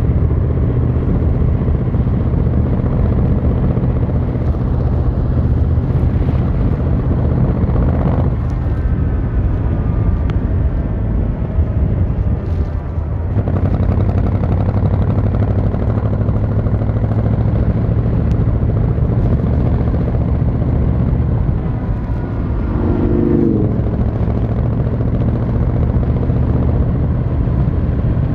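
Yamaha XVZ1300 Royal Star's V4 engine and exhaust running steadily while riding. The engine note dips briefly about 13 seconds in and again about 23 seconds in.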